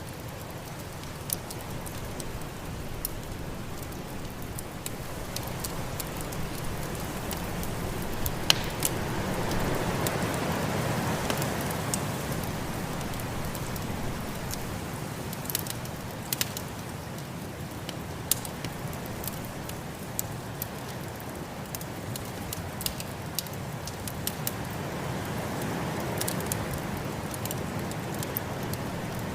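Wood fire crackling with scattered sharp pops, over a steady rushing snowstorm wind that swells louder twice, about a third of the way in and again near the end.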